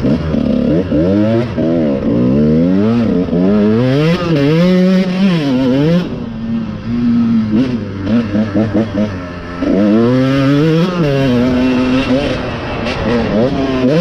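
Dirt bike engine revving hard, its pitch climbing and dropping every second or so as the throttle is opened and closed, with steadier held notes about six seconds in and again near the end.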